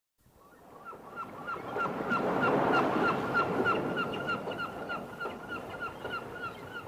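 A flock of gulls calling over and over in short, hooked cries, over the rushing wash of surf, fading in from silence.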